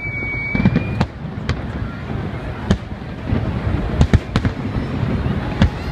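Aerial fireworks bursting: scattered sharp bangs, irregularly spaced about half a second to a second and a half apart, over a steady crowd noise. A long high whistle, rising slightly in pitch, ends about a second in.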